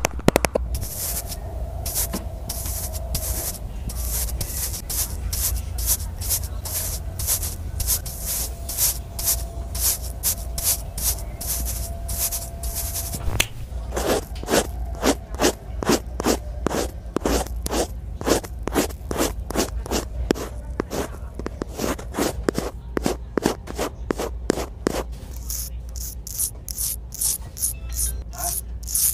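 Rhythmic scraping strokes, about two a second and quickening near the end, over a low hum.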